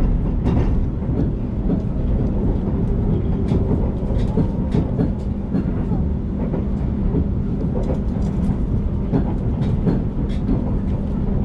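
Passenger train running, heard from inside the carriage: a steady low rumble with scattered clicks from the wheels over the rail joints.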